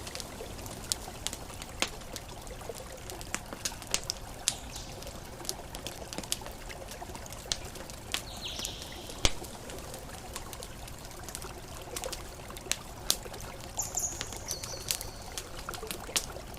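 Campfire crackling, with irregular sharp pops and snaps scattered over a steady wash of ocean waves. A couple of brief high chirps come in about halfway through and again near the end.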